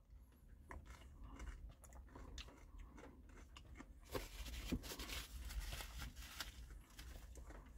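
Faint chewing and crunching of a mouthful of caramel popcorn McFlurry, soft-serve ice cream with pieces of caramel popcorn, a little louder from about four seconds in.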